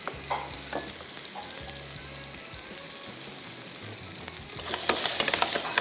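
Potato wedges sizzling in a few spoonfuls of hot oil in a frying pan. The sizzle gets louder near the end, with short clicks.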